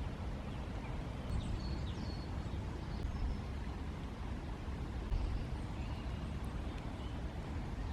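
Steady low outdoor woodland ambience, with a few faint high bird chirps.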